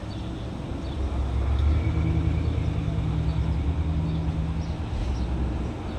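Volkswagen car engine running with a steady low hum. It grows louder about a second in and drops back near five seconds.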